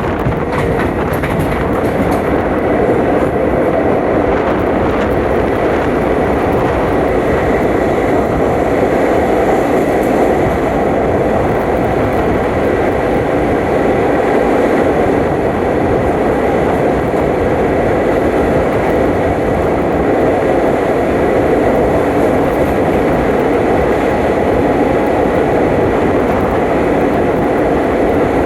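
Passenger train running along the track at speed, a loud steady rumble and rattle of the wheels and carriage, with a faint steady high whine.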